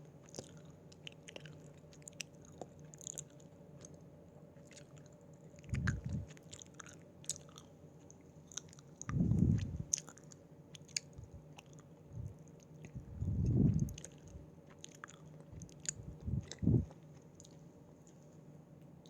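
Close-miked chewing of Haribo gummy candies: soft, sticky wet mouth clicks throughout, with four louder short low chews or bites spread across it.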